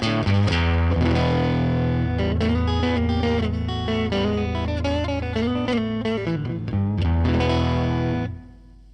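Electric guitar, a Fender Stratocaster, played through a Line 6 Helix amp-and-cab model with some distortion: low ringing notes under quicker picked notes. It stops suddenly near the end, leaving a low hum.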